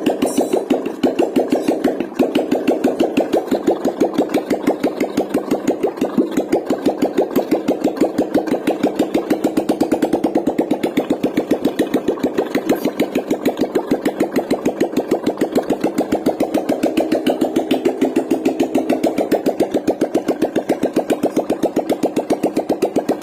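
Royal Enfield Classic 350 single-cylinder engine idling with an open silencer, giving a steady, even beat of exhaust pulses. The engine was freshly fitted and is running on choke.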